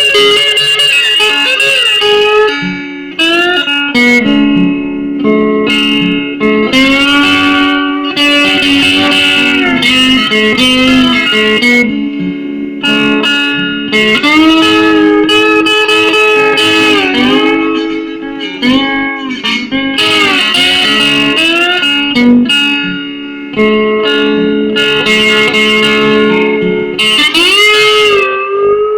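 Nine-string guitar played with a bottleneck slide: plucked notes and chords whose pitch glides up and down between notes, continuing throughout.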